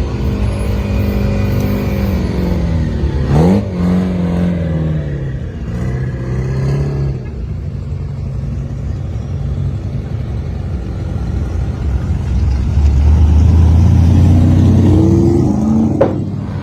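Muscle car engines running loud on the street, with a quick rev about three and a half seconds in. A deep rumble swells near the end, followed by another sharp rev.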